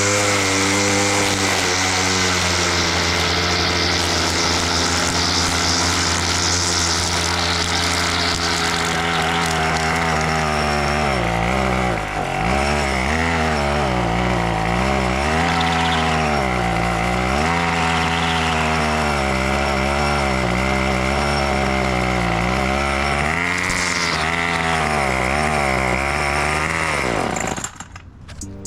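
Small petrol lawnmower engine running, steady at first, then its pitch dips and recovers again and again before it winds down and stops near the end.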